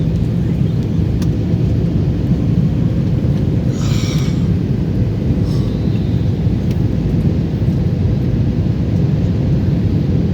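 Steady low rumble of an airliner's engines and airflow heard inside the passenger cabin during the descent to landing. A brief higher-pitched sound cuts in about four seconds in.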